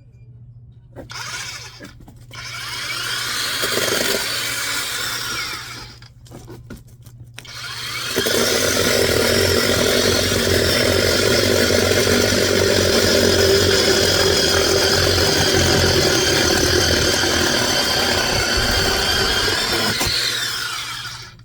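Power tool motor running under load while splitting oak logs for firewood. A short run about a second in, a longer one from about two to six seconds, then a long steady run from about eight seconds that stops just before the end.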